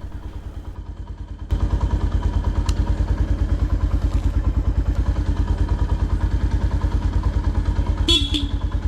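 Motorcycle engine running with a steady, even pulse, getting louder about a second and a half in. Near the end a short horn beep sounds once.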